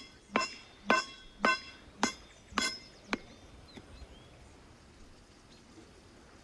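A hammer striking about seven times, roughly two blows a second, each with a short metallic ring, then stopping about three seconds in. Faint bird chirps follow.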